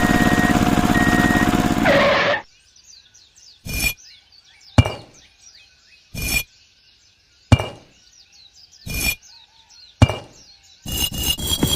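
Six sharp knocks, spaced about a second apart, over faint birdsong. A loud sound with a fast pulse fills the first two seconds, and music with rising notes comes in near the end.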